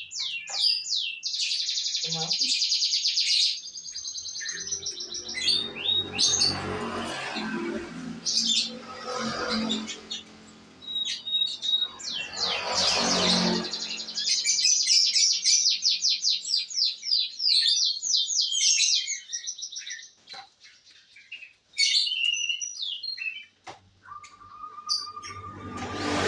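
Canary singing: long, very fast high trills and rolling phrases, broken by shorter chirps and pauses.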